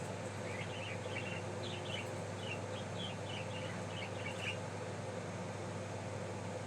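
Budgie chattering in a quick string of short chirps for about four seconds, over a steady background hum.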